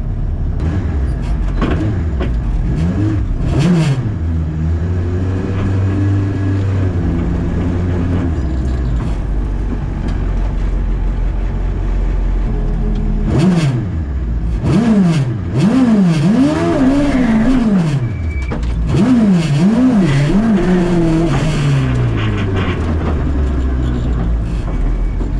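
Suzuki Hayabusa inline-four motorcycle engine in a Toyota KP61 Starlet idling, with a few sharp throttle blips that rise and fall quickly, most of them in a burst past the middle.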